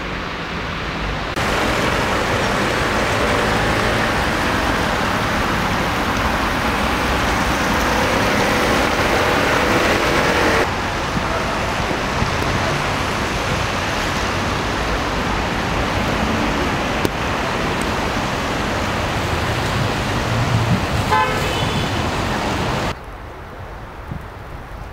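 Street traffic noise, the sound jumping abruptly in level a few times, with a brief car horn toot near the end.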